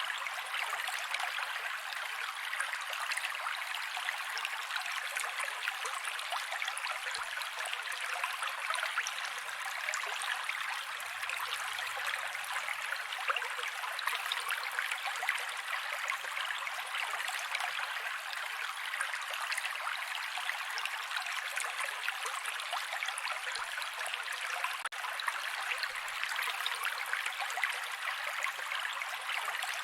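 Mountain creek water running over rocks: a steady, even babbling and splashing, with a momentary dip in level about 25 seconds in.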